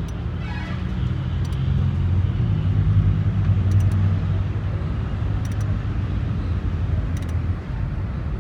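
Steady low engine rumble that swells a little in the middle, with a sharp click about every two seconds.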